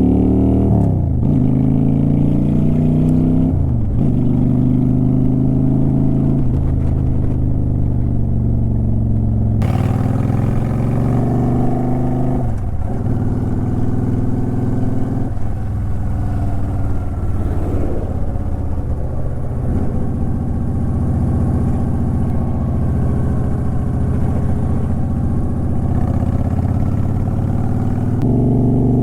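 2009 Honda Shadow Aero 750's V-twin engine and exhaust under way, pitch rising through the gears with sharp drops at the upshifts in the first several seconds, then settling into a steadier cruise with small throttle changes. Wind noise hisses over the microphone from about ten seconds in.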